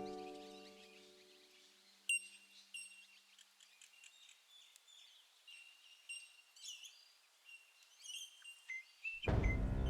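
Wild birds calling in a forest: scattered short chirps and whistled notes, some rising, over several seconds. Plucked, harp-like music fades out at the start and comes back in near the end.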